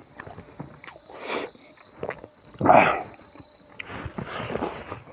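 Close-up eating sounds as a man eats rice and smoked pork by hand: chewing and lip smacking, with one loud, breathy mouth noise about two and a half seconds in.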